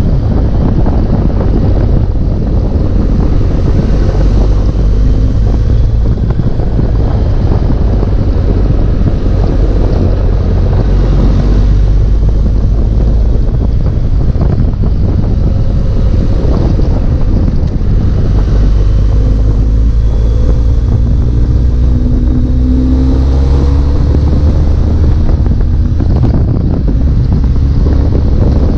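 Wind buffeting the microphone of a BMW R 1250 GS while riding at speed, over the boxer twin engine's running note. The engine pitch climbs a little about two-thirds of the way through.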